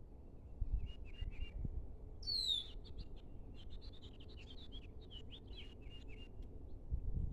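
Small songbirds calling in the open: a few short chirps, a sharp downward-sliding call about two seconds in, then a quick run of chirps. A low rumble, like wind on the microphone, runs underneath.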